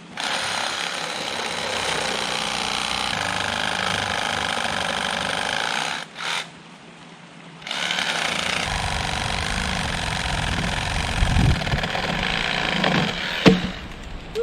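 Reciprocating saw (Sawzall) cutting through a fallen tree trunk, running in two long runs with a short stop about six seconds in. A sharp knock sounds near the end.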